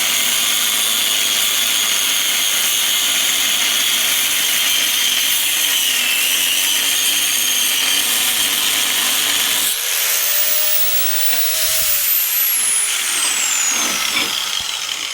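Angle grinder cutting a groove into steel plate: a loud, steady, high whine with grinding noise. About ten seconds in the disc comes out of the cut and its pitch rises briefly, then the grinder is switched off and winds down, its pitch falling steadily over a few seconds.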